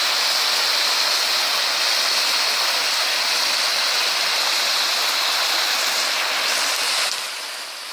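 Waterfall rushing steadily, the sound dropping away somewhat for a moment near the end.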